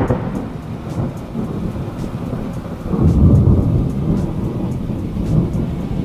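A low rumbling noise that swells again about halfway through and cuts off abruptly at the end.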